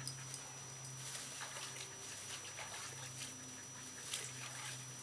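A dog whimpering softly, with a few short breathy sounds, over a steady low hum.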